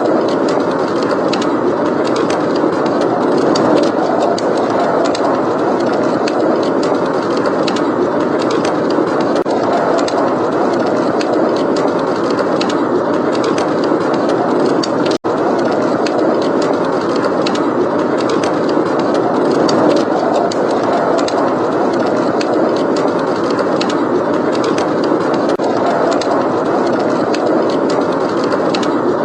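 Steady blizzard wind with a fireplace crackling: a constant rushing noise dotted with small crackles and pops. The sound cuts out for a split second about fifteen seconds in.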